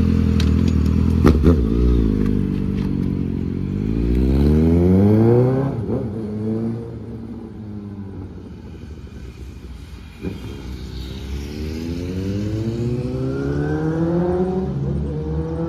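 Suzuki GSR 750's inline-four engine through a full CS Racing exhaust system, pulling away and accelerating: the engine note rises steadily, drops at a gear change about six seconds in, then rises again and grows fainter as the bike rides off.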